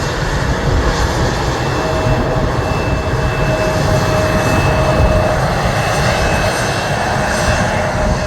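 Airliner engines running: a loud, steady rumble with two steady whining tones, one low and one high.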